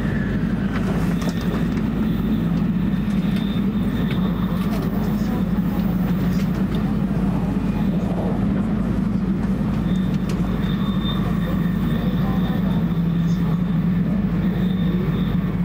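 Steady running noise of an E2 series Shinkansen heard inside the passenger car at speed: a constant low rumble.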